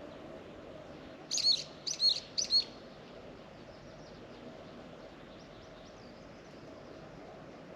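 A bird calls three loud, sharp chirps in quick succession about a second in, followed by fainter chirps. A faint steady hum runs underneath.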